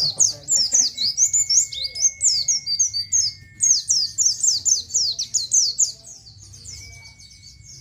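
A pleci (white-eye) singing a rapid, continuous run of high, down-slurred 'ciet' chirps, several a second. The chirps grow fainter after about six seconds. A thin, steady high note is held beneath them twice.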